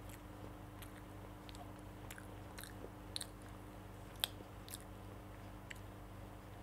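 A child chewing soft chicken mayo roll close to a clip-on microphone: faint wet mouth clicks and smacks about every half second, with one sharper click a little past the middle. A low steady hum runs underneath.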